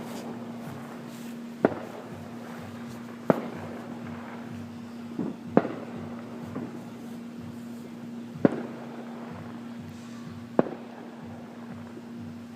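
Fireworks going off: about six separate sharp bangs a second or two apart, two of them close together about halfway through.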